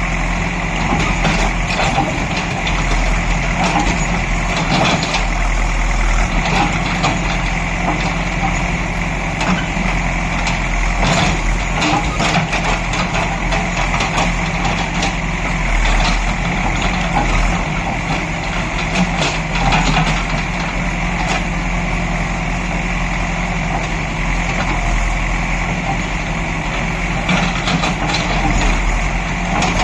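Heavy vehicle engine running steadily and loudly, holding an even speed with small fluctuations.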